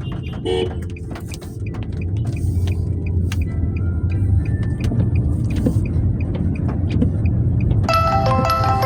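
Car on the road with a steady low rumble of engine and tyres, scattered sharp ticks and a brief tone about half a second in. About a second before the end, chiming mallet-percussion music comes in.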